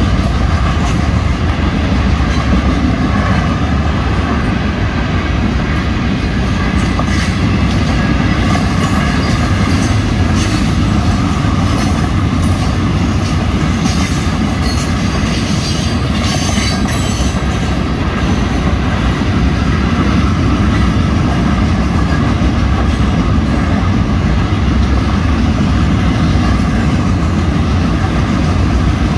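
Florida East Coast Railway train passing: a steady, loud, heavy rumble, with wheels clacking on the rails and some wheel squeal.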